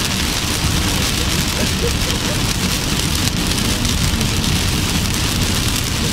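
Heavy rain pouring on a moving car: a steady, dense hiss with a low rumble underneath.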